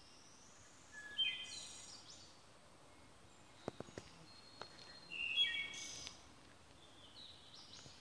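A songbird singing short phrases of several quick, high notes, two loud phrases about four seconds apart and a fainter one near the end, with a few soft clicks in between.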